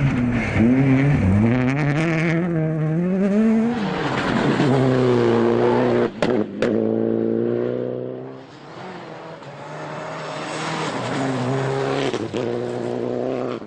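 Rally car engine heard from on board, revving hard and dropping with each gear change as the car drives a special stage. Two sharp cracks come about six seconds in, then a brief lift off the throttle before it pulls up again.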